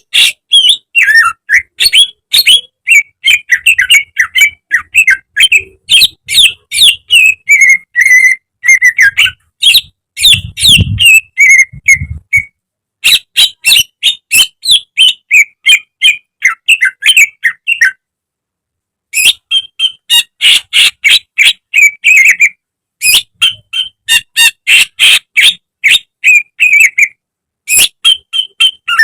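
Cucak ijo (green leafbird) singing a fast, chattering song of quick, sharp notes in close succession. It breaks off a few times for a moment, once for about a second.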